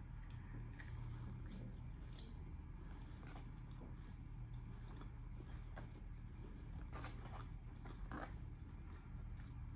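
A person chewing barbecue close to the microphone, with scattered short wet clicks and smacks over a steady low hum.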